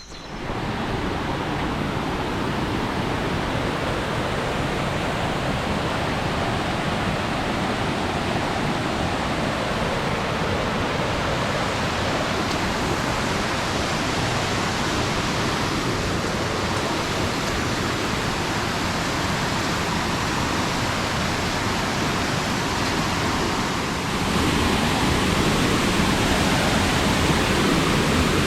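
Waterfall: a steady, loud rush of falling water that gets a little louder near the end.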